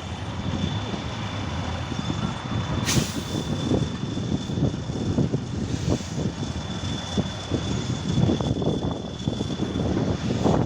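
Trial truck's diesel engine working hard on an off-road section, with irregular knocks and crackles and a steady high whine. A short, sharp hiss of air comes about three seconds in.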